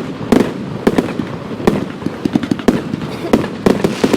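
Fireworks going off: an irregular run of sharp bangs and cracks, a few each second, over a continuous crackling background.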